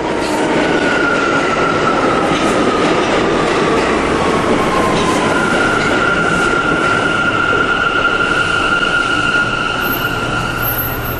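R179 subway train running on the rails, its motors whining over a steady rumble of wheel noise. The whine slides slowly down in pitch for about five seconds, then holds as a steady higher-pitched whine.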